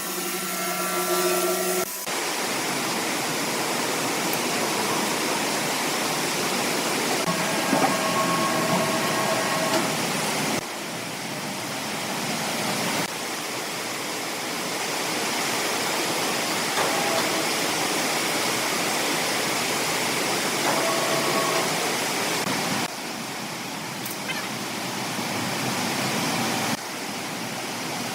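Steady rushing noise of woodworking machinery, with faint whines now and then. The sound changes abruptly several times.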